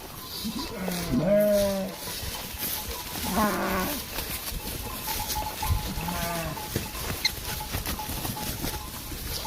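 Farm animals calling: three drawn-out bleating calls, each about a second long and a couple of seconds apart, the first the loudest.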